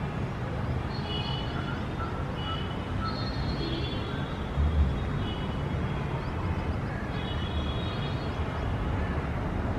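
Outdoor city ambience: a steady low rumble of road traffic, with birds chirping in short repeated calls over it. A brief low thump comes about halfway through.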